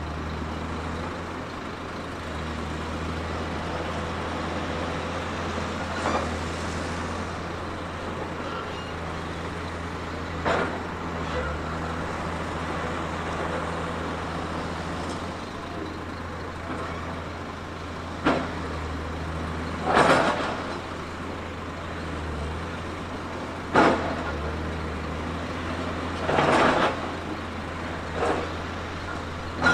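Heavy earthmoving machine's diesel engine running steadily with a low drone, broken about seven times by sudden loud bursts of noise, a few of them lasting up to about a second.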